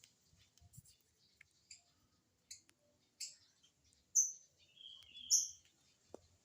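Lovebird giving short, high chirps, a handful spaced about a second apart, with the loudest two in the second half and a brief steadier whistle between them.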